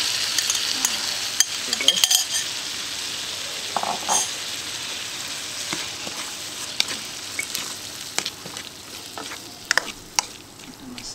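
Chopped pineapple dropped into a wok of hot oil and fried chili paste sizzles, loudest at first and dying down over several seconds, while a spatula stirs and scrapes it with scattered sharp clicks against the wok.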